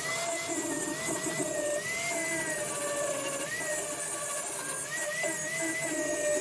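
An electric power tool running steadily, its whine wavering slightly up and down in pitch.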